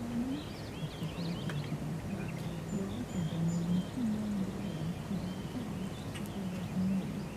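Birds chirping in quick short calls, most busily in the first couple of seconds, over a continuous low wavering hum.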